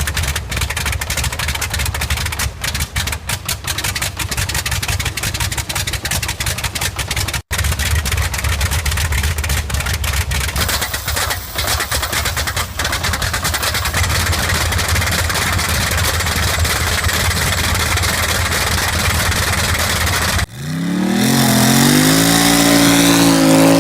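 Bristol Hercules 14-cylinder air-cooled radial aircraft engine running, a steady popping with a deep rumble, broken by a brief dropout about seven seconds in. Near the end a different engine takes over, revving with its pitch climbing.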